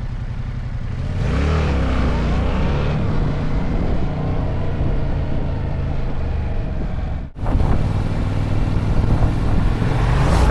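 Yamaha MT-07's parallel-twin engine under way, rising in pitch as it accelerates about a second in, then running steadily. The sound cuts out for a moment about two-thirds of the way through, then the engine carries on with wind noise building near the end.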